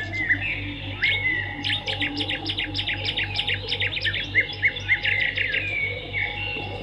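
Swiftlets twittering: many quick, high chirps and short sweeps overlapping one another, thickest in the middle, over a steady low hum.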